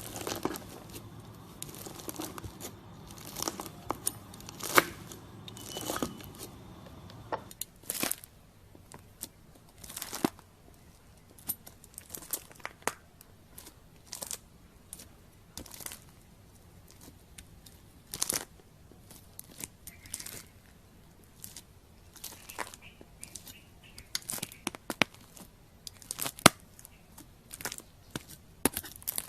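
Crunchy slime with foam beads being cut and pressed with a knife, giving irregular sharp crackles and pops.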